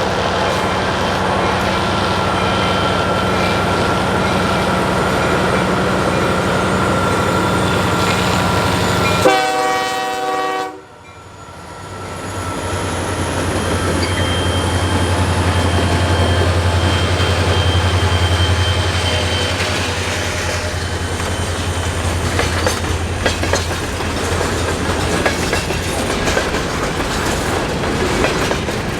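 Diesel freight train passing: a steady rumble, then a short horn blast about nine seconds in that cuts off abruptly. The locomotives' diesel engines follow with a deep steady throb, then the cars' wheels click over the rail joints.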